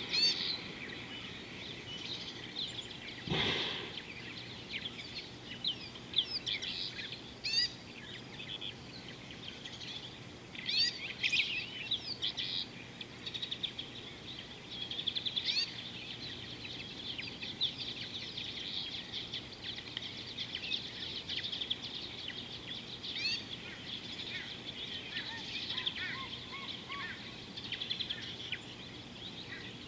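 Many wild birds chirping and trilling over a steady outdoor background, with a brief rushing noise a few seconds in and a few short, lower whistled notes near the end.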